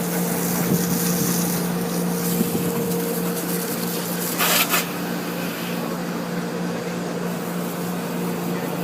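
Car-wash machinery running with a steady hum over a hiss, with a brief louder burst of hissing spray about four and a half seconds in.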